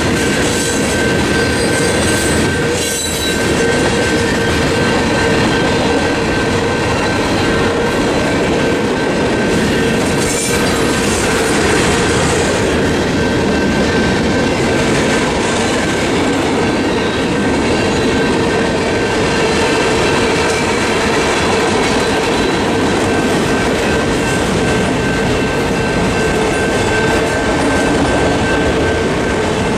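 Freight train cars rolling past at a grade crossing, wheels clattering over the rail joints with some squealing, over the steady ringing of the crossing's General Signals Type 2 electronic bells.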